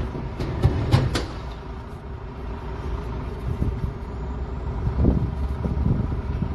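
Diesel heavy equipment engine running steadily with a low rumble and hum. A few sharp clicks or knocks come in the first second or so.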